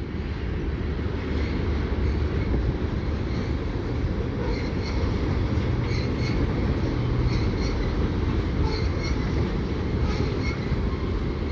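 Freight cars of a mixed freight train rolling past, a steady low running noise with faint, brief high wheel squeaks now and then.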